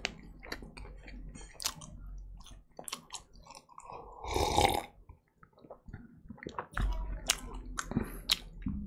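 Close-miked mouth sounds of a person chewing pizza: a run of small wet clicks and crunches. About four seconds in comes a louder, longer sip from a mug, and the chewing resumes near the end.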